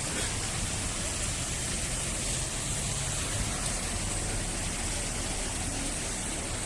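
Steady hiss of a wet, rain-soaked street, rain and water noise mixed with traffic on the wet road, with no single event standing out.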